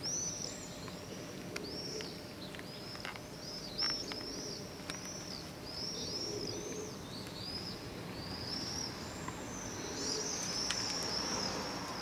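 Small birds flying overhead, calling in many short, high chirps one after another, over a steady low background rumble.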